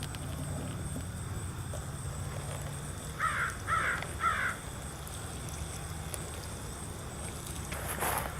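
A bird calling three times in quick succession, short harsh calls about half a second apart, over a low steady background hum.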